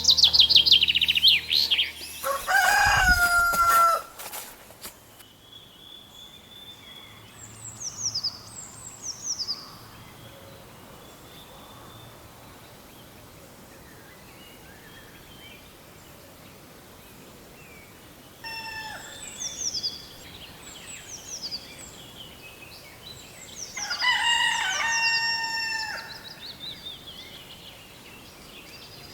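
A rooster crowing twice, about two seconds in and again near the end, with small songbirds chirping in quick falling notes between the crows.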